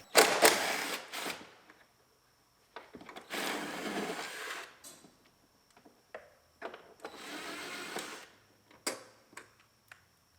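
A power tool run in three short bursts of one to two seconds each, with clicks and light knocks between the bursts.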